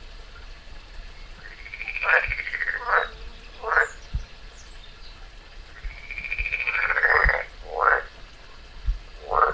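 A frog calling in two bouts, about four seconds apart. Each bout is one long arching call followed by two short croaks, and another call begins right at the end.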